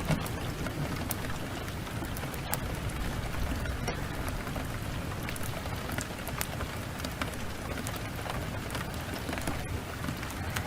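Steady heavy rain with a low rumble underneath, dotted with sharp crackles and pops from a burning wood fire.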